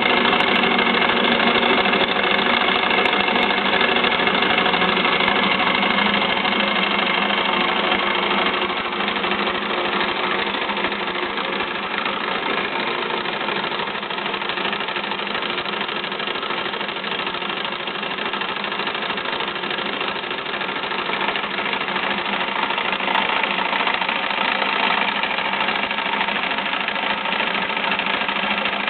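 A model Stirling engine running steadily, a continuous mechanical hum with a fixed pitch that stays even throughout.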